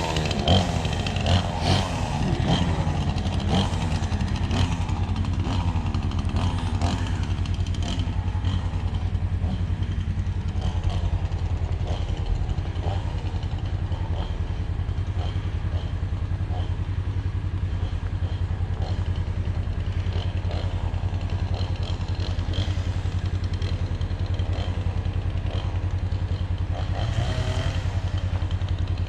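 Two-stroke chainsaw running, revved with its pitch rising and falling in the first few seconds, then running steadily.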